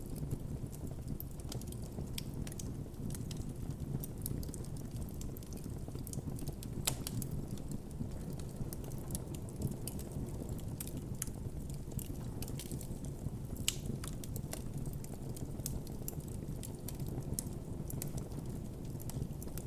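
Campfire of burning wood crackling and popping, with irregular sharp snaps over a steady low rumble of the flames.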